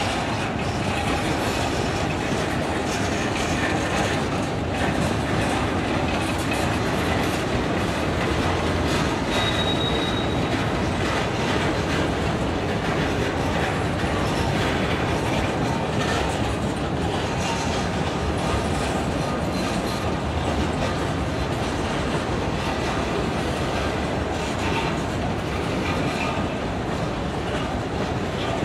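Railroad cars rolling past on the track: steady noise of steel wheels on rail, with a short high-pitched wheel squeal about ten seconds in.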